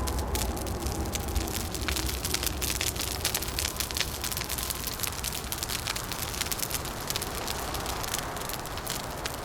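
Wood fire crackling, with frequent sharp pops and snaps over a steady hiss. A low rumble underneath fades away about four seconds in.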